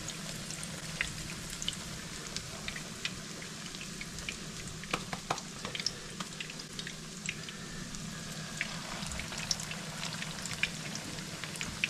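Potato pancakes frying in hot vegetable oil in a pan: a steady sizzle with frequent, irregular sharp pops and crackles.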